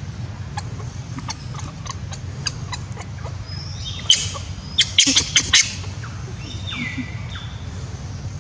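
Birds chirping: short high chirps repeating, then a loud flurry of shrill chirps and squeaks about four to five and a half seconds in, and a single falling whistled call near seven seconds. Under it runs a steady low background hum.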